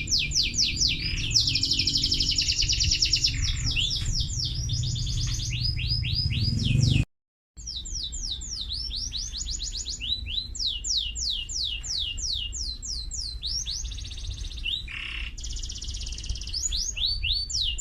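Domestic canary singing in long runs of rapid, repeated down-slurred notes and fast trills. The sound cuts out completely for about half a second some seven seconds in, then the song carries on.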